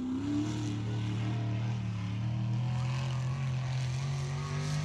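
Mud truck engine running hard and steady. Its note rises a little in the first second, then holds.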